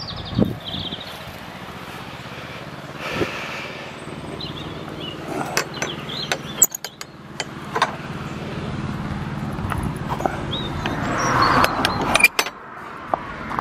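A vehicle engine running steadily, with wind noise on the microphone, a few short bird chirps and scattered sharp clicks.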